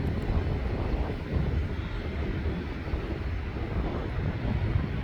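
Jet airliner engines on departure, a steady low rumble.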